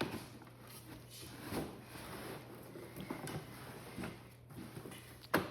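Light knocks and rustles of a robot vacuum's plastic charging dock being handled and pushed into a container, with a sharper knock near the end, over a steady low hum.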